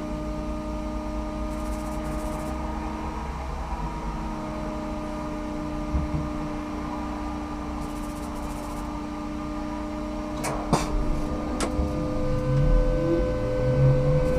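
Ikarus 280T articulated trolleybus humming steadily, with several fixed electrical tones. A few sharp clicks come about ten to eleven seconds in, and louder, uneven low rumbling builds near the end.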